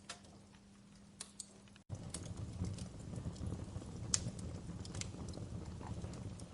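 Wood fire in a fireplace crackling, with scattered sharp pops of burning logs over a low rumble of flames. About two seconds in the sound cuts out for an instant, and after that the rumble is clearly louder.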